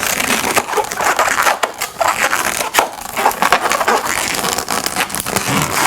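Inflated latex balloons, a blush heart and a black 260, rubbing and squeaking under the hands as a small bubble is twisted. A dense run of scratchy rubbing with a few brief squeaks.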